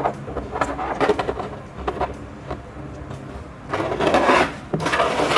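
Plastic molds and kinetic sand being handled: a series of light taps and scrapes, then louder, longer scraping about four seconds in and again just before the end.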